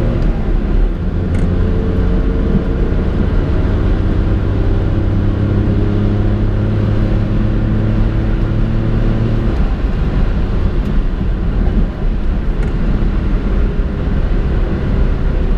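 1993 Honda Today Pochette's 660 cc three-cylinder engine running smoothly on freshly changed oil, heard from inside the cabin while driving, over tyre and road rumble. The steady engine hum drops away about nine or ten seconds in, leaving mostly road noise.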